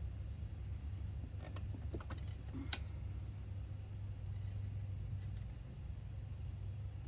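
A few light metallic clinks and taps of hand tools on metal, the sharpest about two and a half seconds in, over a steady low hum.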